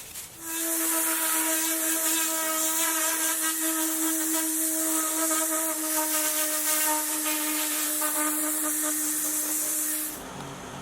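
A small electric motor running at a steady pitch with a strong high hiss, starting about half a second in and cutting off near the end.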